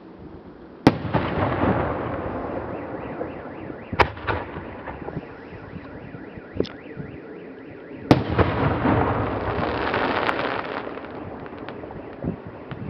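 Aerial firework shells bursting: three sharp bangs about one, four and eight seconds in, the first and last each trailed by a few seconds of dense crackling, with a few smaller pops between.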